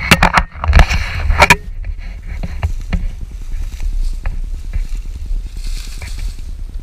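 Four sharp knocks in quick succession in the first second and a half, then a few fainter clicks, over a steady low rumble of wind on the microphone.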